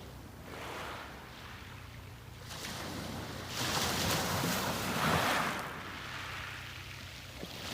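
Sea waves breaking on the beach and washing up the shore: quieter at first, then one wave surges and hisses about halfway through and fades, with the next one breaking at the very end.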